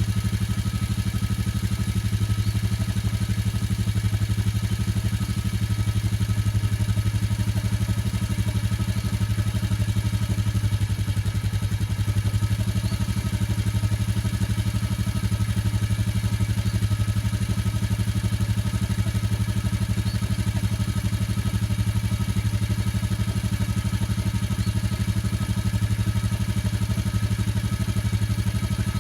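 Motorcycle engine idling steadily while still warming up after a cold start.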